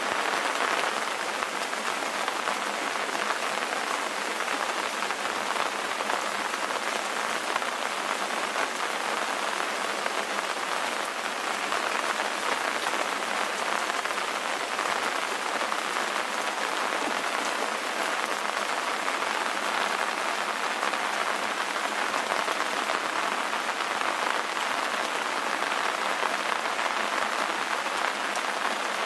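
Steady rain ambience: an even, unbroken hiss of rain falling on a surface, with little bass.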